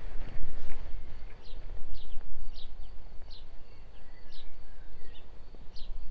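A songbird calling a series of short, downward-sliding chirps, repeated every half second to a second, over a low steady background rumble and a faint steady high tone.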